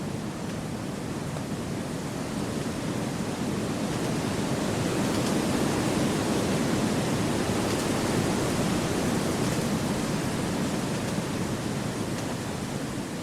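Wind blowing through a forest as a steady rushing noise. It swells into a stronger gust in the middle and then eases off again.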